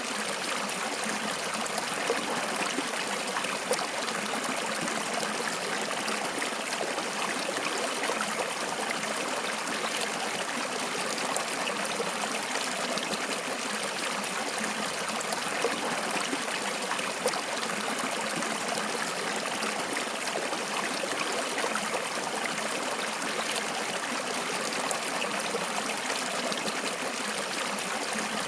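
Water flowing steadily in a stream, a continuous rushing with small splashes and trickles.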